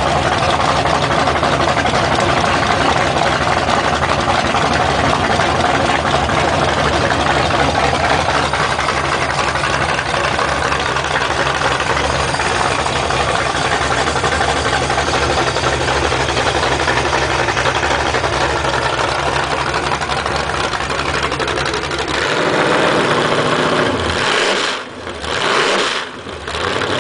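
Rebuilt Chevy 350 small-block V8 running steadily on an engine test stand for most of the time. Near the end it is revved up, then blipped, with the sound dropping away sharply twice between blips.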